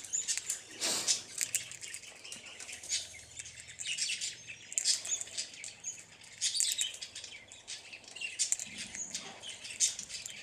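Many quick clicks and crackles from a king parrot husking sunflower seeds, with small birds chirping in the background.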